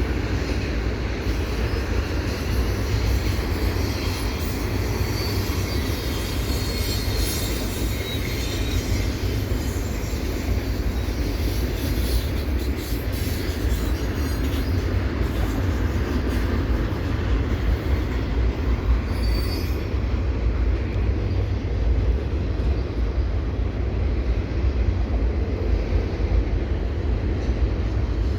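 Eastbound CPKC double-stack intermodal freight train rolling past, a steady low rumble of wheels on rails with thin, high wheel squeal coming and going over the first two-thirds.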